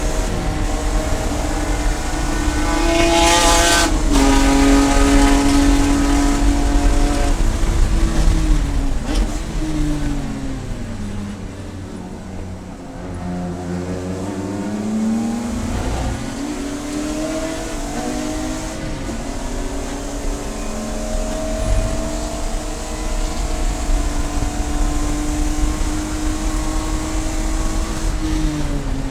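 Race car engine running hard at high revs with an abrupt break about four seconds in, then the revs falling steadily to their lowest around thirteen seconds in as the car slows, before climbing again under acceleration and holding through the rest.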